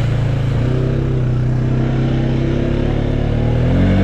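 ATV (four-wheeler) engine running steadily under way, rising in pitch near the end as it revs up.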